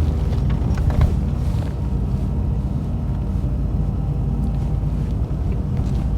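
Truck driving, with a steady low engine and road rumble and a single light knock about a second in.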